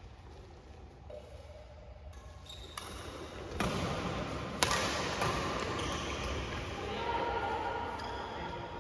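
Badminton play in a hall: a single sharp racket strike on the shuttlecock about halfway through, over a rising din of squeaks and court noise.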